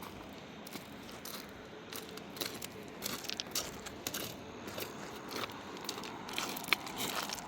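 Irregular crunching and crackling clicks over a steady rushing background, sparse at first and more frequent from about two seconds in.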